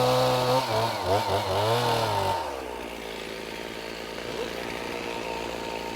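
Stihl two-stroke chainsaw running at part throttle, its pitch wavering. About two and a half seconds in it drops back to a quieter idle.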